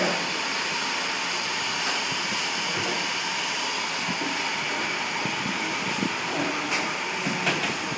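Steady hiss of blowing air, with a few light clicks and taps near the end.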